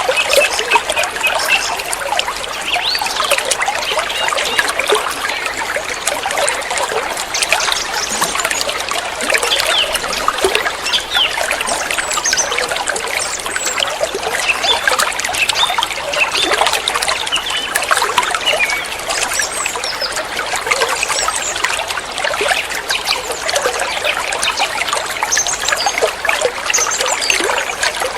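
Water trickling steadily with a busy, bubbling patter, and birds chirping faintly now and then.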